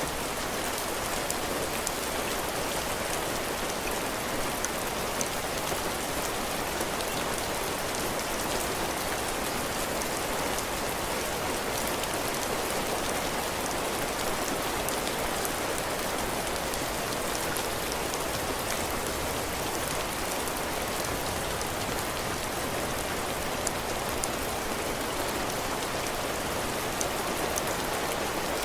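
Heavy rain falling steadily on a porch roof and ground, a dense even hiss with scattered individual drop ticks.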